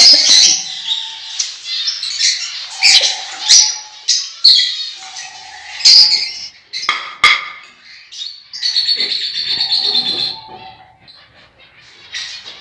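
Pet parrots calling: a string of sharp, loud squawks and chirps, a single sharp click a little after seven seconds, and a burst of rapid chattering about nine seconds in before the calls fade.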